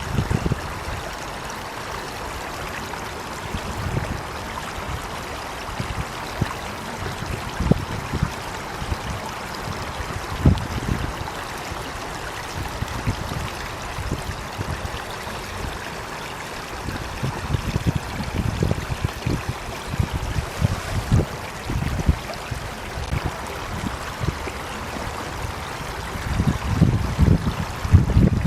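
Running water of a stream, a steady rushing with low rumbles that come and go, loudest near the end.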